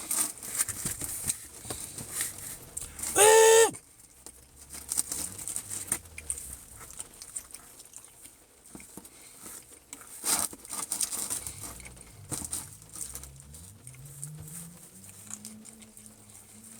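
Rain pattering, with scattered small clicks and crinkles, and a short loud pitched tone about three seconds in.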